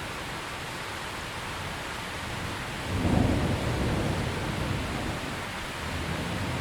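Steady rain falling, with a roll of thunder starting suddenly about three seconds in as a low rumble that fades away over the next few seconds.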